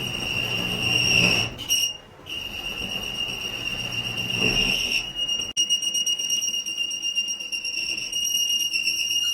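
A workshop machine gives off a steady high-pitched whine, with a low rumble under it for the first five seconds. The whine drops out briefly about two seconds in.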